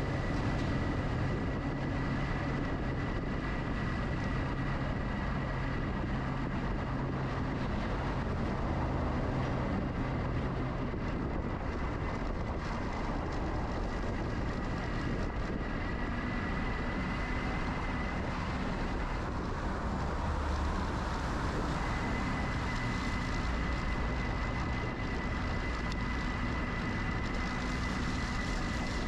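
Steady ride noise from an electric bicycle on the move: road and wind noise with a constant high whine and a low rumble that eases about a third of the way in.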